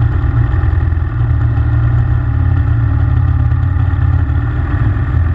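Pit bike's single-cylinder engine running steadily at low, even revs, with no revving up or down.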